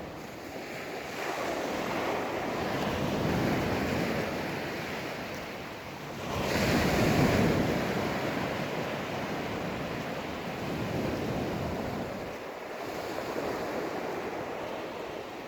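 Sea surf breaking and washing up the sand in slow swells, the loudest wave about six and a half seconds in, with wind on the phone's microphone.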